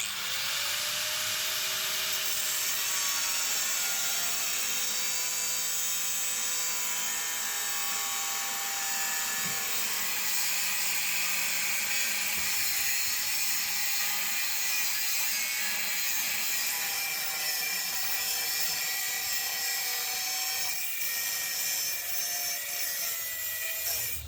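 Electric grinder working iron sheet: a steady, loud hiss of abrasive on metal over a motor whine that dips and recovers as the tool is pressed in.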